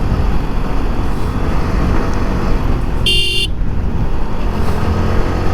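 Motorcycle running steadily along a road with wind and road rumble, and one short vehicle horn beep about three seconds in.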